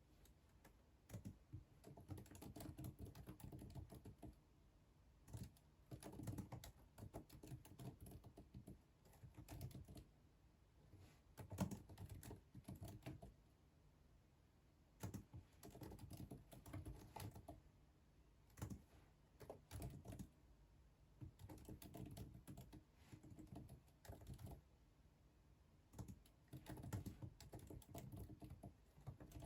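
Computer keyboard typing in short bursts of rapid keystrokes, with pauses of a second or so between bursts.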